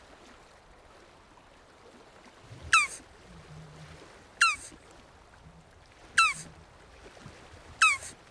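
Jabuti (South American tortoise) calling four times at an even pace, about one and a half seconds apart. Each call is a short, high note that drops sharply in pitch.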